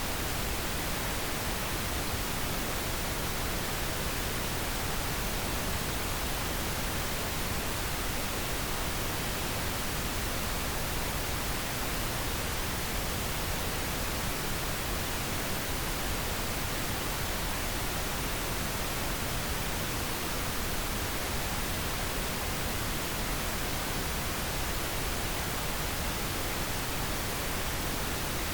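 Steady synthetic pink noise: an even, unchanging hiss spread across all pitches, played as a sleep aid.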